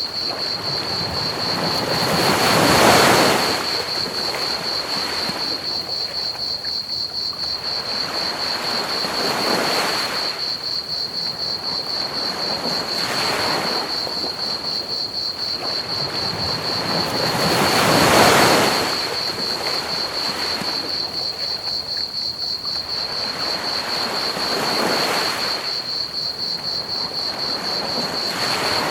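Ocean waves washing onto a beach, swelling and falling every few seconds, the biggest about three seconds in and again near the middle. Crickets chirp steadily throughout over a constant hiss of pink noise.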